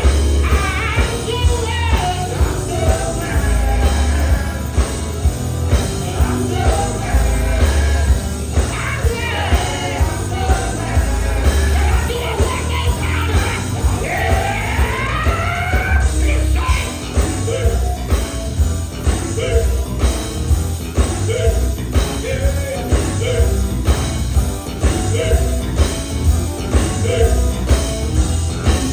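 Live gospel band playing with a steady drum beat and heavy bass, a singer's voice sliding through runs above it.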